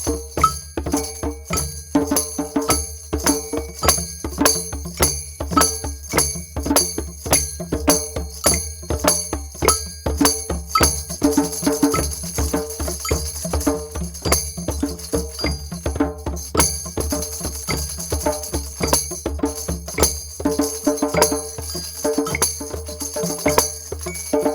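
Drums played together in a fast, steady rhythm of about four strikes a second, with a high jingling layer running over the beat.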